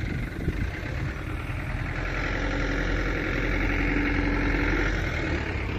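Diesel engine of a Hino Dutro dump truck running under load, a steady low rumble that grows louder over the first couple of seconds.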